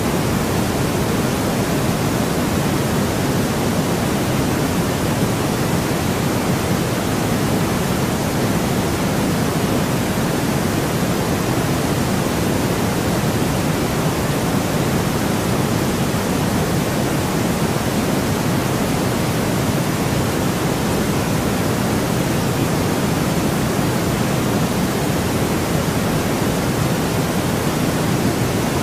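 Steady white noise track: a constant, even hiss that is fuller in the low and middle range than at the top, with no changes.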